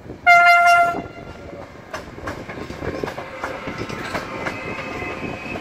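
An electric locomotive hauling passenger coaches gives one short horn blast as it passes. Its wheels then clack over the rail joints under a steady rumble.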